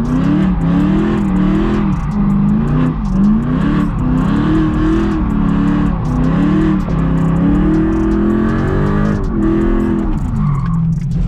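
BMW M3 engine through a straight-piped exhaust with no cats and no muffler, revving up and down over and over as the car is spun in donuts.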